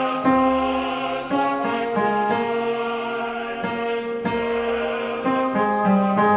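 The tenor line of a choral song, sung with piano accompaniment: sustained notes that move from pitch to pitch every half second or so.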